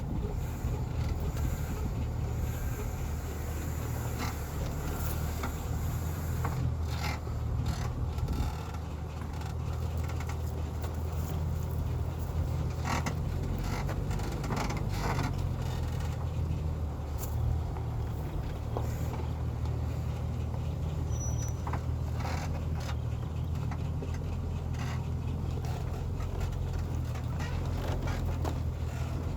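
Heavy timber truck's diesel engine running steadily under load, a continuous low rumble, with scattered short knocks and rattles.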